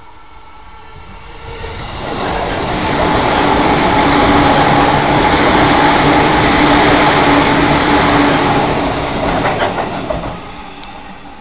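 JR East 205-series electric commuter train passing over a steel railway bridge. Its rumble swells in over about two seconds, holds with a steady hum underneath, and fades out about ten seconds in, with a few wheel clacks near the end.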